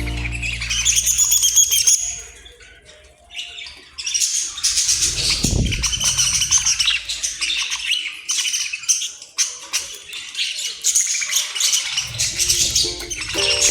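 A flock of budgerigars chirping and chattering in rapid high twitters, with a short low flutter about five seconds in. Background music with a bass line comes back near the end.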